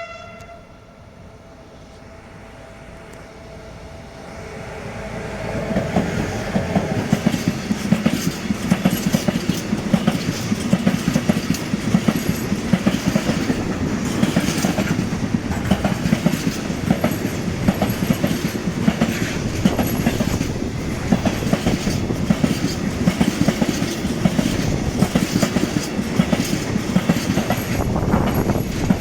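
Freight train passing through a station, just after a horn blast whose tail ends at the very start. The noise builds over the first few seconds as the train arrives, then a long, steady run of wagon wheels clattering over the rail joints.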